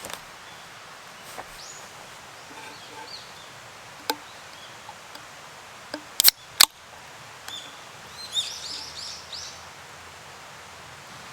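A few sharp knocks, three of them in quick succession about six seconds in, then a bird's rapid run of short, high, falling chirps over a steady background hiss in the woods.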